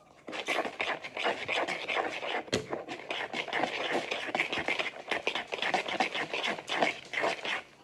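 Spoon stirring thick pancake batter with peanut butter and chocolate chips in a bowl, a continuous irregular scraping against the bowl.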